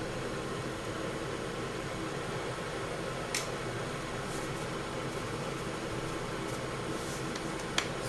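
Kitchen cooker hood extractor fan running steadily, with two small clicks, one about three seconds in and one near the end.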